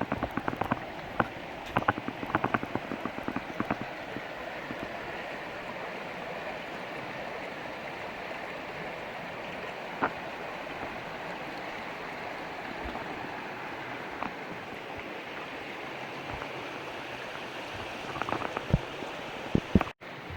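Steady rushing of a waterfall, with a scattering of sharp clicks and taps in the first few seconds and again near the end.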